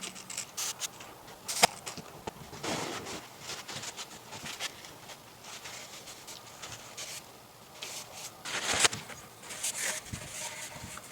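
Irregular handling noises: scattered clicks, light knocks and short scraping sounds, with sharper knocks about one and a half seconds in and near nine seconds.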